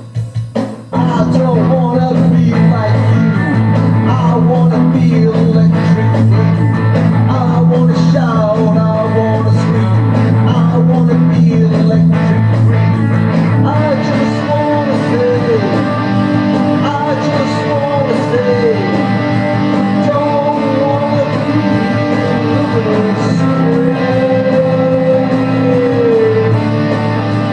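Rock band recording with electric guitar over a bass guitar playing held, changing notes. The full band comes in about a second in, and sliding, bending melody lines rise and fall through the second half.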